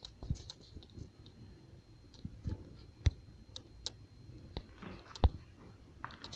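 A newly lit fireplace fire, started with lighter fluid, crackling as it catches: scattered sharp pops and clicks, the loudest about three seconds in and about five seconds in.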